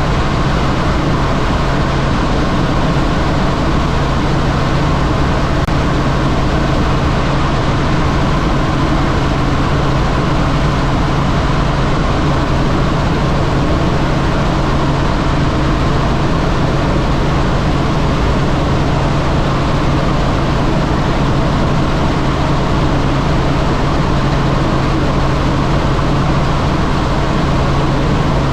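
Helicopter in flight: steady, loud engine and rotor noise with a constant low hum underneath.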